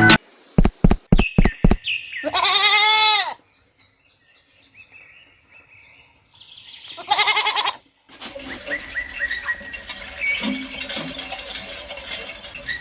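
Five quick clicks, then a goat bleating twice, the first call about a second long and the second a few seconds later and shorter; after that, a steady background hiss with faint chirps.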